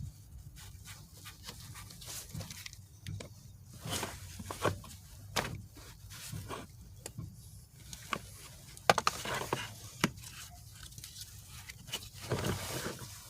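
Scattered sharp clicks and knocks of hand tools and metal parts being handled while taking apart a manual shifter, over a low steady rumble.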